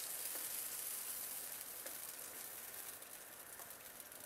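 Dough frying in a pan of hot oil: a faint, steady sizzle with a few small crackles, slowly fading. The oil is now hot enough to fry well.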